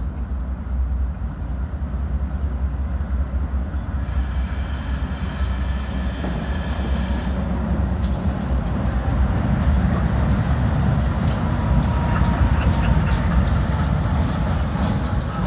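Diesel locomotives on a light engine move running by with a heavy low rumble that grows louder about ten seconds in. Wheels click over the rail joints from about eight seconds in.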